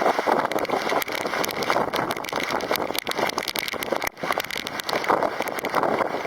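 Typhoon wind and rain: a dense, rushing noise that rises and falls, with many small sharp taps throughout.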